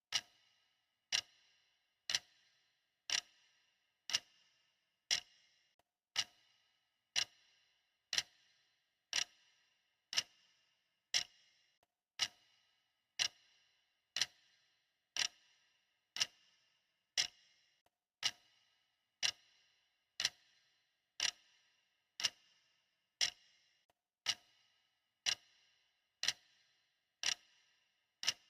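Clock ticking steadily, one crisp tick about every second, each dying away quickly.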